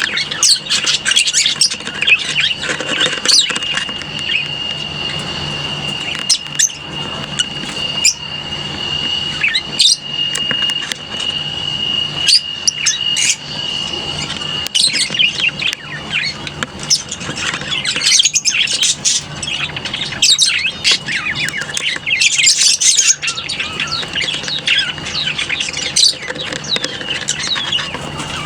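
A colony of lovebirds chattering, with many sharp, high chirps and squawks overlapping one another.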